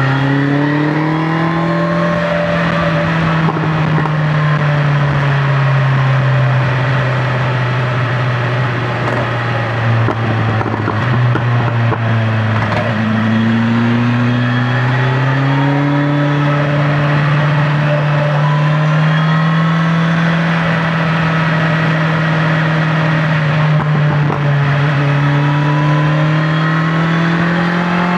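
BMW S1000XR's inline-four engine running at highway speed, heard from the rider's seat with wind rushing past. Its pitch rises under throttle at the start, sinks for a few seconds near the middle, then climbs again and holds high.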